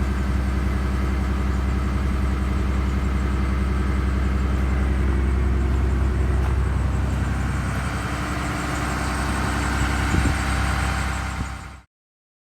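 Cummins 6.7 inline-six turbo diesel of a Blue Bird Vision school bus idling steadily after a cold start, until the sound cuts off abruptly near the end.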